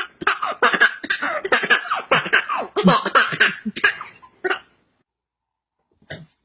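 A child laughing hard in rapid, breathy, gasping bursts. The laughter stops abruptly about four and a half seconds in, and after a short silence more laughter starts near the end.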